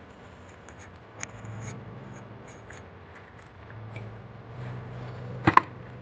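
Scraping and small clicks of hand work on metal parts, with two sharp knocks in quick succession about five and a half seconds in.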